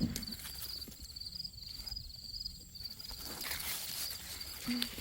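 Insects trilling steadily, a high pulsing chirr, with faint rustling and a few light knocks of movement through the garden.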